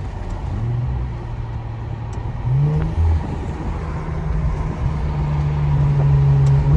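Straight-piped Infiniti Q50's exhaust, with no muffler or resonators, droning under light throttle while driving. Its pitch steps up briefly about two and a half seconds in, then holds steady.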